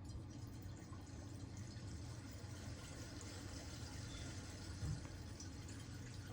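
Faint, steady water running as a newly installed toilet's tank refills after a flush.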